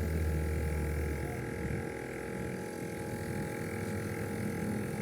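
Steady machine hum: a deep low hum fades out about a second and a half in, leaving fainter steady tones running on.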